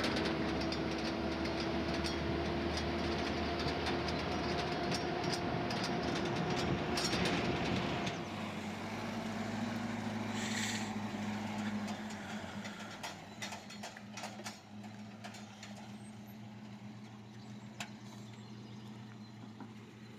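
An engine running with a steady hum that rises slightly in pitch, then about eight seconds in drops to a lower note and gradually fades away.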